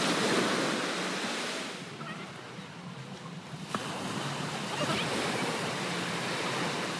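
Ocean surf washing onto a beach, one surge of waves at the start and another about four seconds in.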